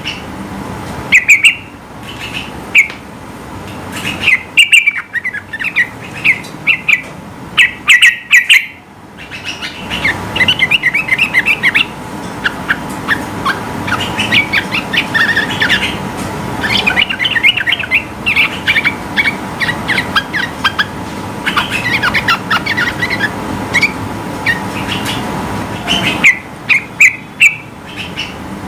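Yellow-vented bulbul singing loudly: short, sharp repeated calls at first, then a long, rapid, unbroken chattering run through most of the middle, and short calls again near the end.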